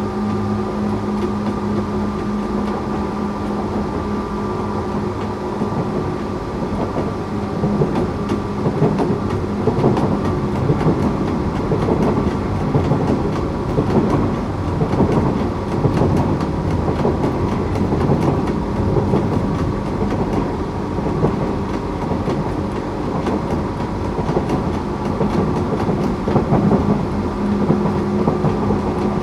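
Tokyu 8500 series electric train with Toyo-made traction motors, heard from inside the car while running: a steady electrical hum under wheel-on-rail rumble and clicking rail joints. The rumble and clicks grow louder about seven seconds in.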